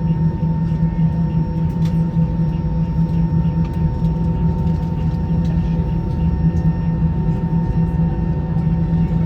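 Steady cabin noise of an Airbus A321 on the ground with its engines running: a low, even drone with a steady hum over it.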